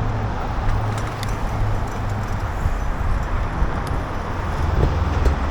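Steady road traffic noise heard from a moving bicycle, with a constant low rumble and a few faint ticks.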